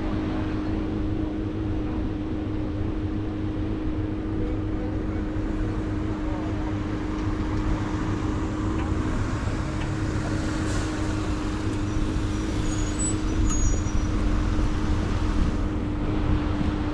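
Steady road traffic rumble with a constant engine hum. A few brief high chirps come about two thirds of the way through.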